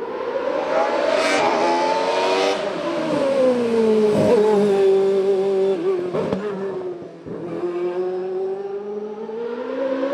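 Racing car's engine running hard on a hill climb, its pitch rising, dropping back and rising again as it goes through the gears. There are a few short sharp cracks along the way.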